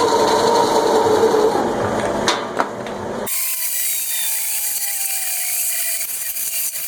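Power tool working wood: a rough, dense grinding run with steady tones for about three seconds, then an abrupt change to a thin high hiss with a slowly falling tone.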